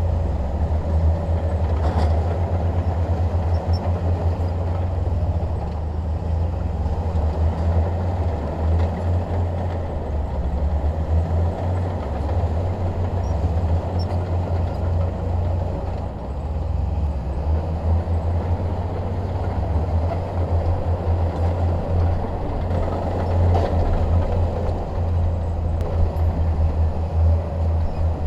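Bulldozer's diesel engine running steadily under load with a deep, even drone.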